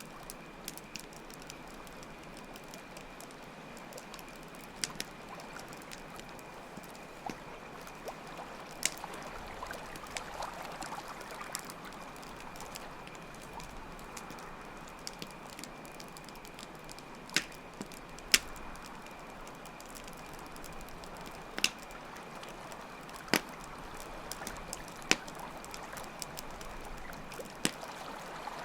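Campfire crackling, with scattered sharp pops, a few louder ones in the second half, over a steady flow of water and a constant high cricket chirping.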